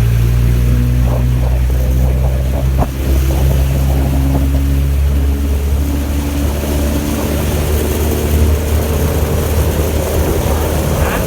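A 15 hp outboard motor running steadily with a boat under way, giving a low, even engine note.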